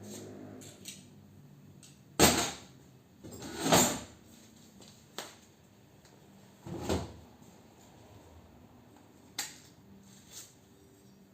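Scattered knocks and clatters of metal parts being handled while an air-conditioner unit is taken apart for scrap: a sharp knock about two seconds in, a longer clatter a second or so later, then a few smaller knocks spread out after it.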